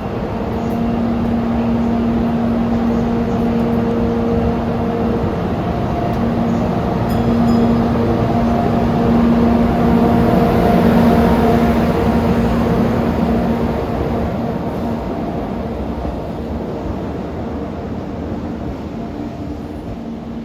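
JNR EF64 1000-series electric locomotive running light as it pulls out and passes, with a steady low humming tone over the running rumble. It grows louder toward the middle and fades away toward the end.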